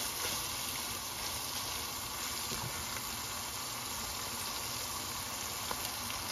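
Chicken pieces and masala sizzling steadily in a wok over a high flame.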